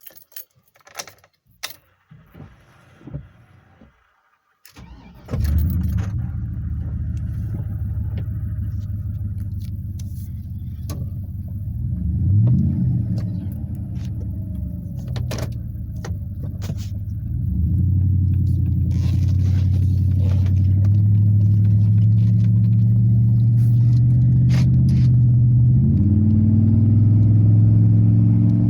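Light clicks and rattles, then a 2003 Chevrolet Silverado 2500HD with a Flowfx aftermarket exhaust starts warm about five seconds in and settles into a deep, steady idle, heard inside the closed cab. There is a brief rise in revs near twelve seconds, and the engine gets louder from about eighteen seconds on.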